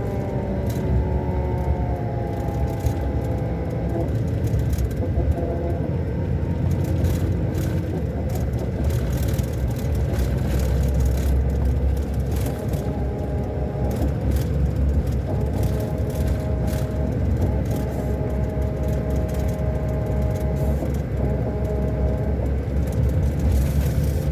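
Scania K400 Euro 5 coach's diesel engine running on the road: a steady low rumble with whining tones that hold and then shift in pitch every few seconds, and scattered knocks.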